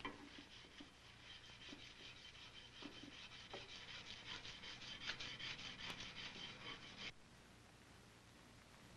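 Emery cloth being rubbed along the flats of a wrought-iron rifle barrel to polish it, in quick back-and-forth strokes. The faint rasping stops abruptly about seven seconds in.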